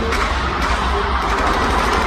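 Loud crowd noise in a large hall over music, with a sharp crack right at the start.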